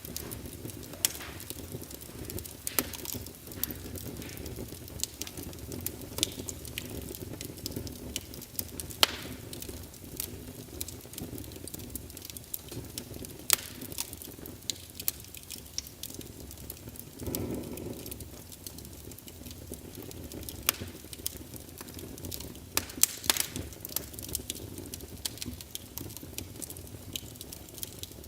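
Wood fire crackling in a fireplace: irregular sharp pops and snaps over a steady low rush of flame, which swells briefly a little past halfway.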